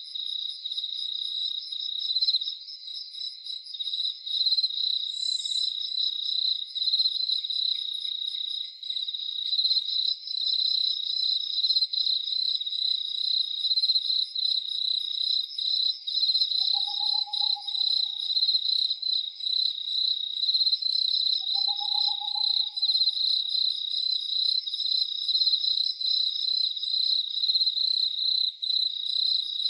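A night chorus of crickets chirping steadily in a dense, pulsing high trill. Twice, about five seconds apart, a short lower call from another night animal sounds over it.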